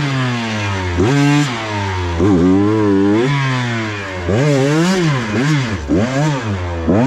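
KTM 125 XC two-stroke dirt bike engine revving up and falling back over and over, about once a second, as the throttle is worked on and off.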